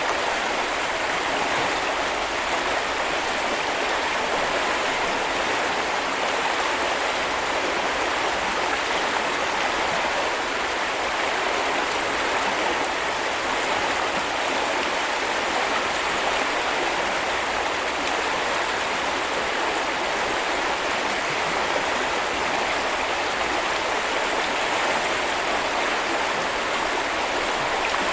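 Small river or brook flowing over stones, a steady, even rush of water.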